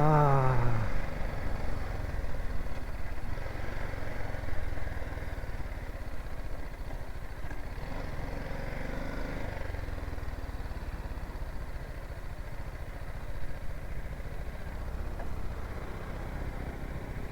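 The single-cylinder engine of a BMW G 310 GS motorcycle running steadily at low revs, a low even rumble. A short falling call is heard right at the start.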